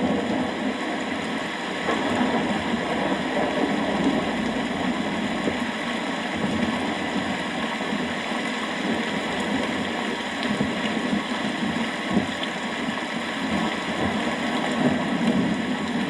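Steady rain falling: an even, unbroken hiss with a low rumble beneath it.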